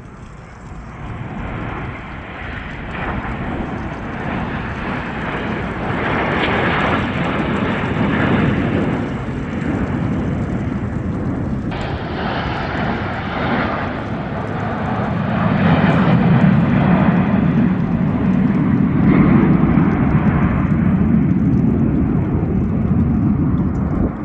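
Jet aircraft flying overhead, the Snowbirds' CT-114 Tutor jets, a steady engine rush that grows louder over the first several seconds and stays loud.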